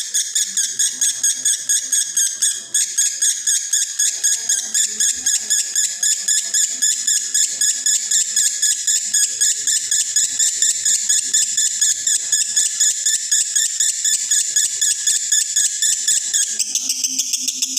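Male lovebird in breeding condition giving a long, unbroken 'konslet' chatter: a rapid rattling string of high calls at about four to five a second, with no pause.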